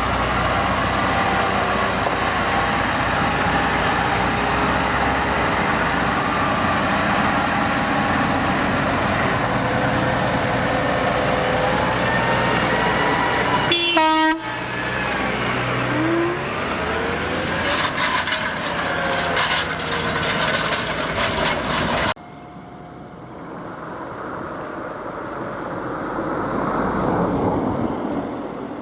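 Farm tractor engines running steadily at work in the field, with a short sharp pitched sound about halfway. The engine pitch then rises and falls. Near the end it drops suddenly to a quieter tractor sound that grows louder and fades again, like a tractor passing.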